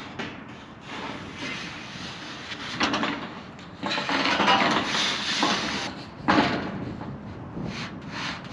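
Knocks and scraping as sheets of metal are handled and laid in place, overlapping, with a longer stretch of scraping in the middle and a sharp knock a little later.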